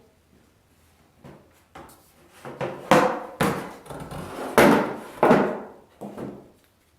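A string of irregular knocks and bangs, about eight, each with a short ring, the loudest about three seconds and four and a half seconds in.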